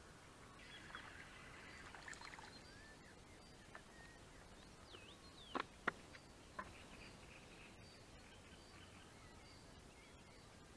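Quiet outdoor ambience with faint bird calls: twittering in the first couple of seconds, then a few short, sharp calls sweeping downward in pitch about halfway through, the loudest sounds here.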